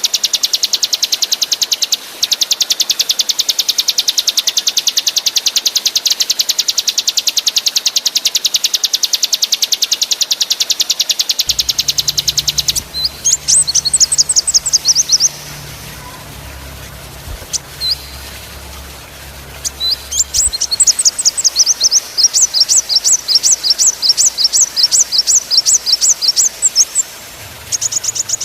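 Small songbird singing a very fast, dense trill of high repeated notes for about thirteen seconds. It then breaks into shorter bursts of sharp, rapid-fire trilled notes, with gaps between them.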